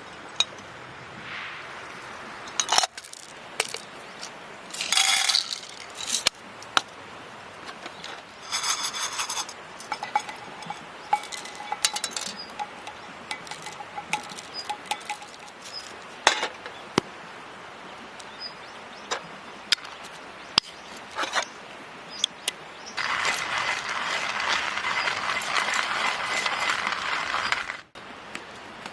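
Camp-cooking sounds at a campfire: scattered sharp clicks and light clinks of metal over a low steady background, and near the end a steady rushing hiss for about five seconds that stops abruptly.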